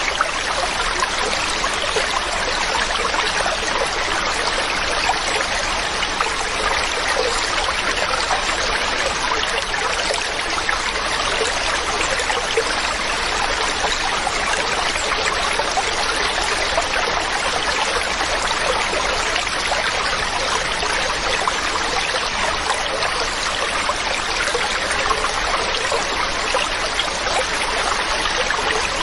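Mountain stream of running water, a steady rush and trickle that holds an even level.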